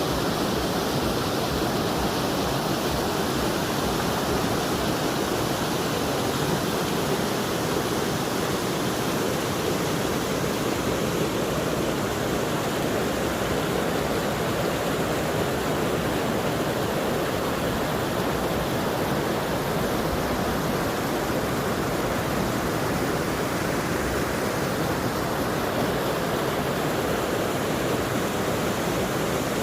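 Steady rushing water of a stream or waterfall: a continuous, even roar with no breaks.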